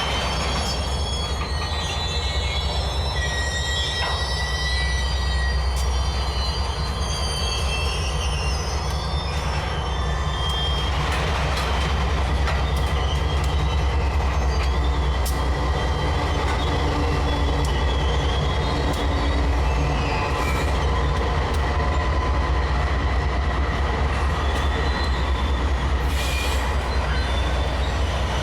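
Freight train wagons rolling past on the rails with a steady low rumble, the steel wheels squealing in high, wavering tones against the rails, with scattered clicks from the wheels and couplings.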